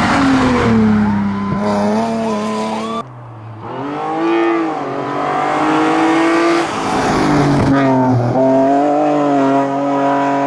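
BMW straight-six hillclimb cars accelerating hard at full throttle. The engine note climbs in pitch and drops back at each upshift. About three seconds in, the sound cuts from one car to another of the same kind.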